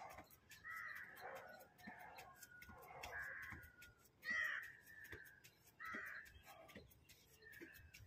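Bird calls repeating about once a second, each short, the loudest about halfway through.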